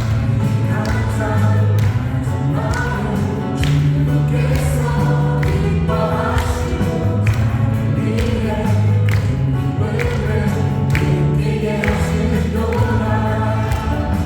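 Praise band playing a worship song: several voices singing together over keyboards and a steady drum beat.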